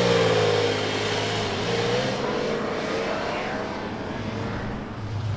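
A car's engine running hard, its pitch easing down while the sound fades over the next few seconds.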